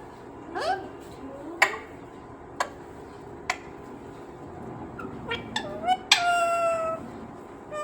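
A pet green parrot giving short squeaky chirps and a few sharp clicks, then a longer, slightly falling squawk near the end.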